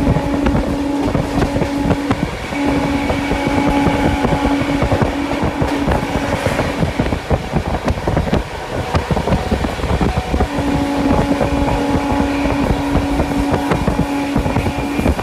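Express train coach running at speed, its wheels clattering over the track. A steady pitched tone sounds over it in three stretches.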